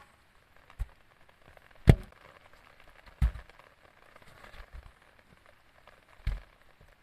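Four sharp strikes on wood at uneven intervals, the second the loudest, as when building a simple shelter.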